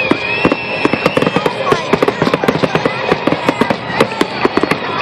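Fireworks finale: aerial shells bursting in a rapid barrage, several sharp bangs a second, with long whistling tones over them.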